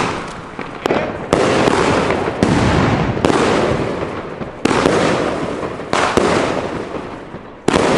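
A 30 mm firework battery (Bonfireworks Bloody Chameleon cake) firing in sequence: about eight sharp shots at uneven intervals of roughly half a second to a second and a half, each followed by a long fading rush as the shells burst and echo.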